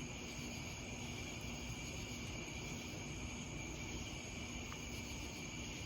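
Steady chorus of night insects, a continuous high-pitched trilling, with a faint low hum underneath. No thunder is heard.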